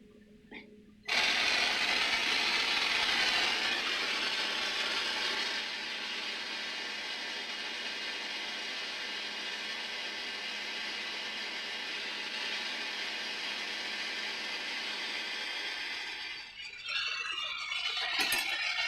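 A metalworking tool running steadily on a brass saxophone key, a loud even rushing noise that starts abruptly about a second in and stops after about fifteen seconds, followed by a couple of seconds of clattering.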